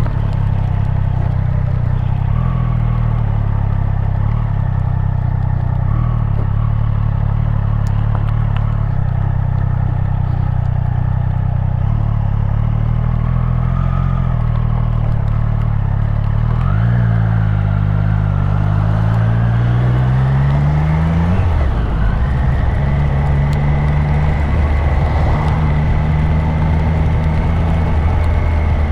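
Triumph Street Triple RS's 765 cc inline three-cylinder engine running at steady revs on the move, over road and wind noise. About seventeen seconds in the revs climb for a few seconds, drop sharply at a gear change, and settle steady again.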